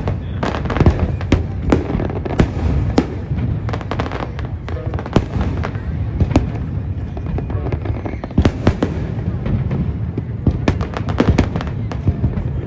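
Aerial fireworks display: shells bursting in frequent bangs and crackles, with a rapid flurry of cracks near the end.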